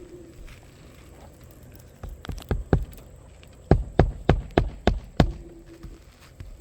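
Hammer nailing a shingle down on a roof: three lighter taps, then six hard blows about three a second.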